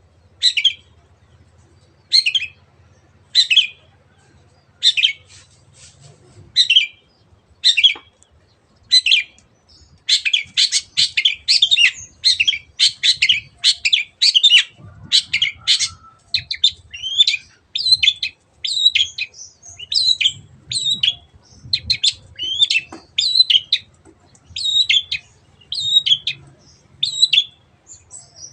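Long-tailed shrike (cendet) singing: short separate notes about once a second at first, then about ten seconds in a dense, fast run of notes, followed by quick varied phrases, a song full of mimicry of canary and other birds.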